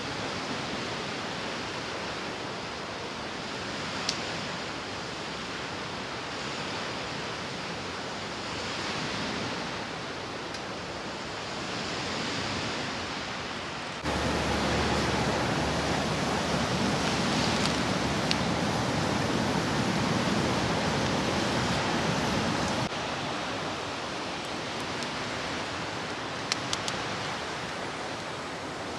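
Steady rushing outdoor ambience with a few faint clicks, jumping louder about halfway through and dropping back near the end.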